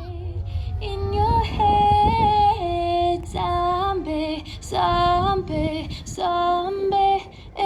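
Music: a woman's voice singing a melody in held notes that step up and down, over a low rumble.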